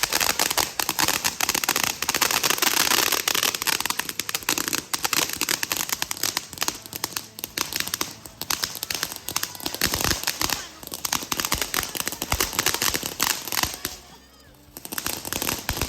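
Firecrackers going off in a rapid, continuous stream of pops and crackles. The stream thins out about fourteen seconds in, then picks up again.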